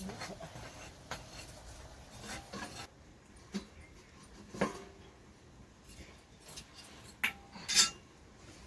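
Scattered clinks and knocks of dishes and utensils being handled, with the loudest ones near the end.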